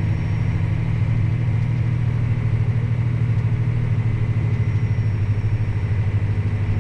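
Tractor engine running steadily under load, driving the grain cart's unloading auger through the PTO as the cart empties down to the last of the corn.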